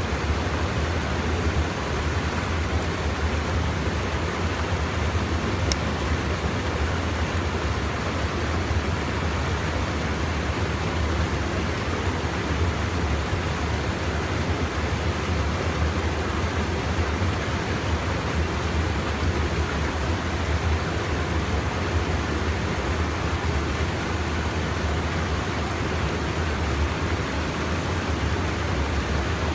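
Steady rush of stream water pouring over a small check dam, with a faint click about six seconds in.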